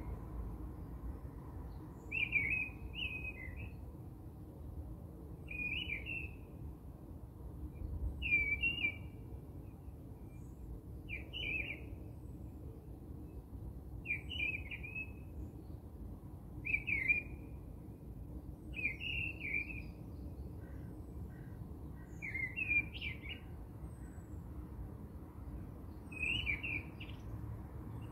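A bird chirping the same short high phrase about every three seconds, over a steady low background rumble.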